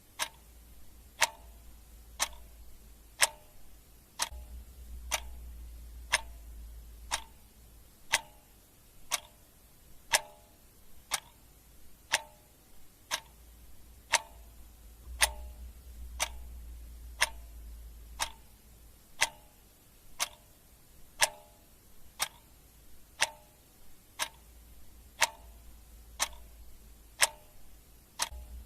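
Clock ticking steadily, about two ticks a second, with every other tick louder in a tick-tock pattern.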